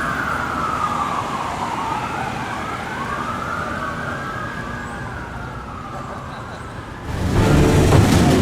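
Fire truck sirens wailing in slow rises and falls, two overlapping at times, growing fainter. About seven seconds in, music starts.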